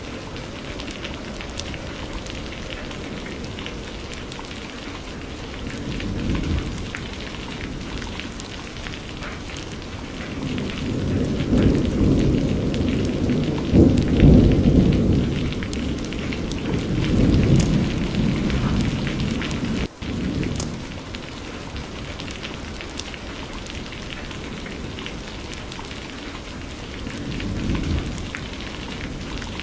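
Steady rain falling, with thunder rumbling low several times: a long, loud roll in the middle and shorter ones near the start and end.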